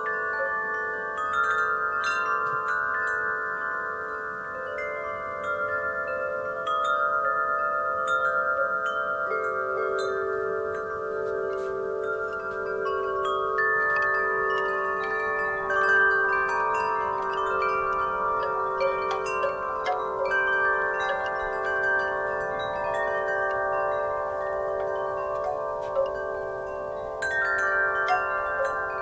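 Wind chimes ringing continuously in a breeze, many tones struck at random and overlapping as they ring on.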